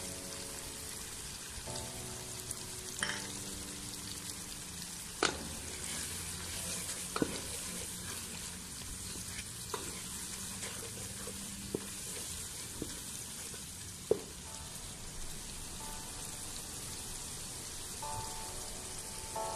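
Tomato masala frying in oil in a pan, a steady sizzle, with a spoon clicking sharply against the pan about seven times as it is stirred.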